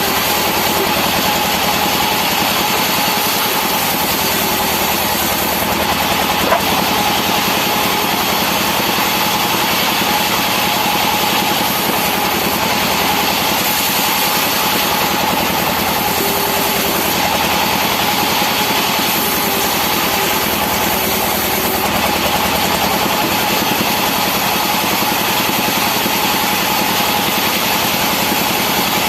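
Sawmill machinery running steadily with a constant hum, as rubberwood is sawn into pallet stock; a single short click about six and a half seconds in.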